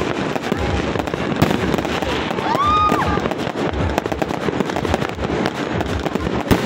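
Fireworks going off without pause: a dense run of bangs and crackles, with a brief rising and falling tone about two and a half seconds in and a sharp, louder crack near the end.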